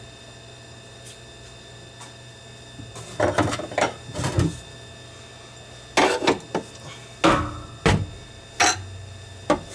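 Irregular knocks and clatters of metal tools and parts being handled, in short bunches from about three seconds in, over a steady low hum.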